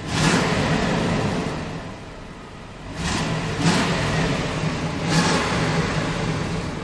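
1994 Buick Roadmaster Estate Wagon's 5.7-litre LT1 V8 being revved, heard from inside the cabin: a loud, burly rev at the start that drops back after about a second and a half, then a few quick blips of the throttle from about three seconds in, settling back toward idle near the end.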